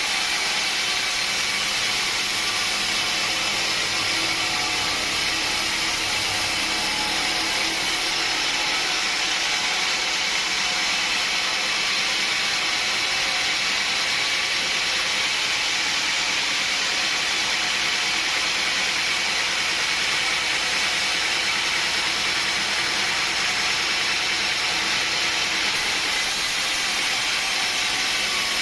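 Sawmill machinery running steadily, a continuous mechanical noise with a strong hiss.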